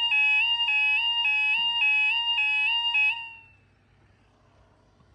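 UK level crossing warning alarm, a high-pitched two-tone electronic yodel switching pitch about every 0.4 s, sounding as the barriers lower. It cuts off about three seconds in.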